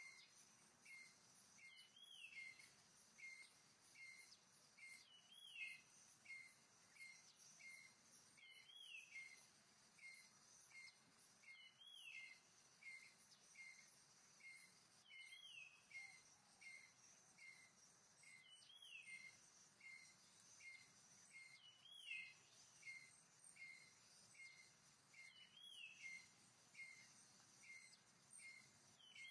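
Faint forest ambience: a bird repeating short high chirps about every half second, with a longer falling call every three to four seconds, over a steady high insect hum.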